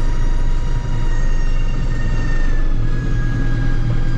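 Case tractor engine running steadily while driving, with a strong low drone and a steady high-pitched whine that drops slightly in pitch about two and a half seconds in.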